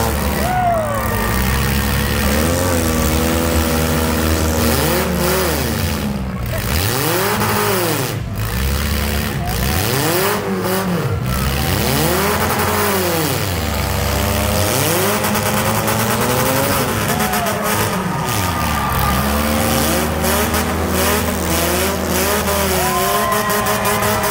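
Demolition derby cars' engines revving up and down over and over, with a steady low engine drone underneath.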